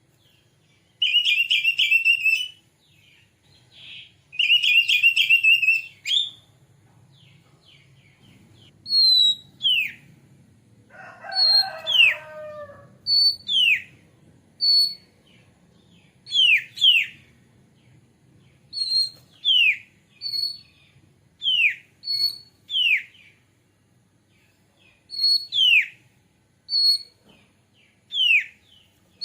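Oriental magpie-robin (kacer) calling: two rapid, buzzy chattering bursts, then a long series of clear whistles that each slide steeply downward, the loud 'plong' whistle, with one lower, rougher call among them about eleven seconds in.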